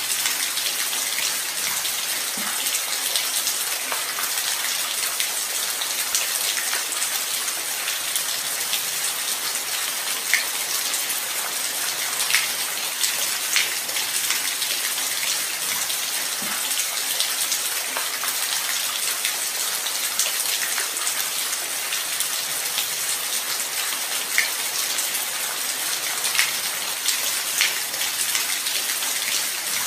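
Light rain falling steadily, a continuous hiss with scattered individual drops ticking sharply on a surface.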